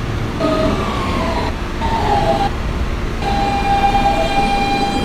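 Siemens traction motors of an R160B subway car whining in a series of falling tones as the train brakes into a station, with a heavy rumble of wheels on rail underneath. For the last two seconds the whine holds as one steady tone.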